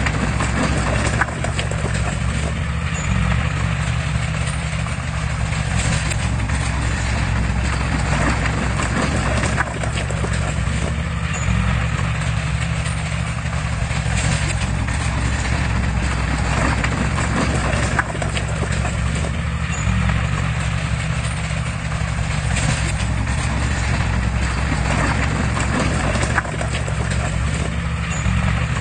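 Komatsu crawler bulldozer working: its diesel engine runs with a steady low drone while the steel tracks clank and clatter irregularly.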